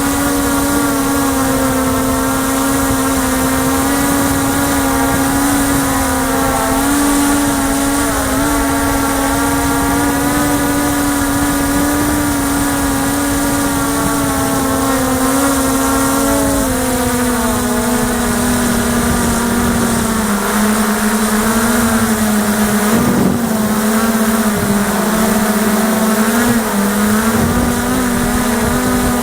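The electric motors and propellers of a 450-size X8 coaxial multirotor drone hum steadily, the pitch wavering as the motors speed up and slow down to hold position. The hum drops a little in pitch about halfway through. A gusty rumble of wind on the microphone runs under it.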